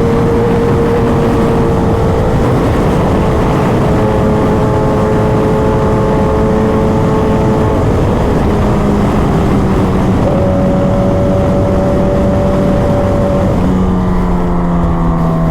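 Kawasaki ZX-10R inline-four with an aftermarket exhaust, running at a steady cruise. Its pitch holds, steps up about eight and ten seconds in, and drops near the end as the bike slows, over a constant rush of wind and road noise.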